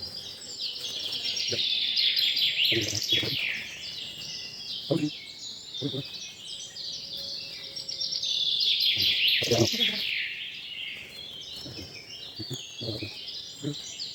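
Many birds chirping and calling at once, a dense overlapping chatter of quick falling notes that swells twice, with a few scattered dull knocks.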